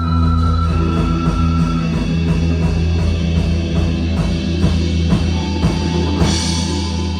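A rock band playing: electric guitar over drums, with steady low notes underneath and a cymbal crash about six seconds in.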